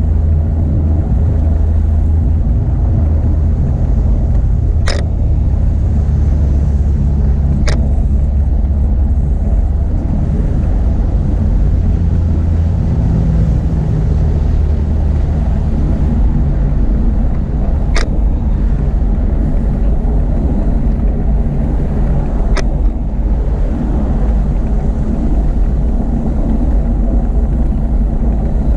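Steady low rumble of wind and road noise while riding a bicycle, with four short sharp clicks scattered through it.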